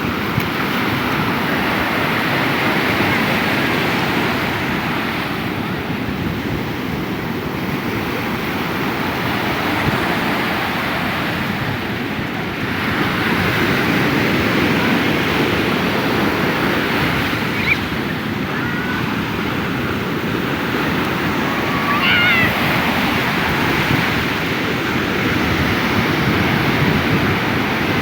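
Sea surf breaking and washing up a beach: a continuous rushing that swells and eases as the waves come in, with wind buffeting the microphone.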